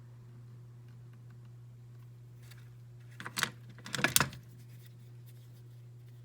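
Small hard objects clicking and clinking as they are handled on a cabinet shelf, in two quick clusters about three and four seconds in, over a steady low hum.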